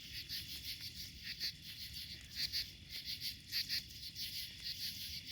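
Crickets chirping in a steady night chorus, pulsing about three times a second, with an occasional faint crackle from a wood bonfire.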